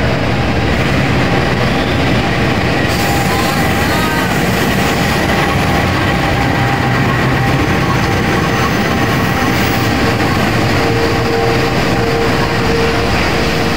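KAI train hauled by a GE CC206 diesel-electric locomotive passing close along the platform: a loud, steady rumble of the locomotive's engine and the wheels on the rails, with a faint steady squeal in the second half.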